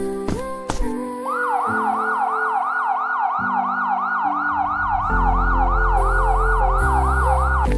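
A siren sound effect with a fast, repeating rising sweep, about two and a half cycles a second, starting about a second in and cutting off just before the end. It plays over background music, and a low bass line comes in about five seconds in.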